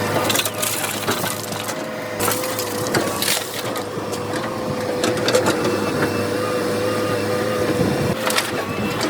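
A heavy machine's engine running steadily with a held whine, while crunching, cracking knocks of material being broken or loaded come at irregular moments.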